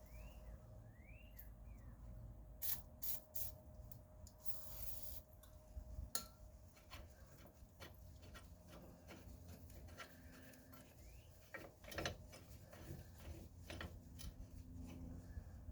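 Faint clicks and rubbing of hand tools on metal as a press tool is handled and lubricated on a car's lower control arm, with scattered knocks. A brief hiss sounds about five seconds in.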